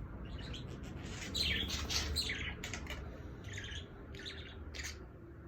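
Budgerigar chattering: a run of short, quick high chirps, several a second with brief pauses between them.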